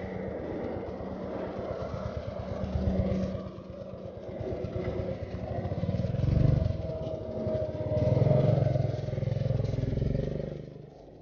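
Royal Enfield Continental GT's single-cylinder engine running as the motorcycle pulls away and accelerates. It swells louder about six seconds in and again around eight seconds, then eases off near the end, with wind rush over the helmet-mounted camera.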